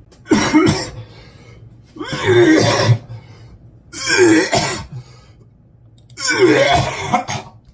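A man gagging in disgust: four loud, rough, throaty heaves, each under a second long, about two seconds apart.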